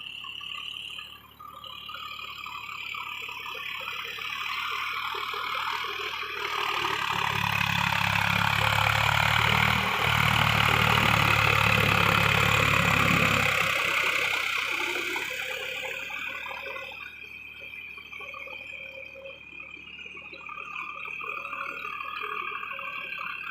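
Swaraj 744 FE tractor's diesel engine passing by: it grows louder over several seconds, is loudest a little under halfway through, then fades away.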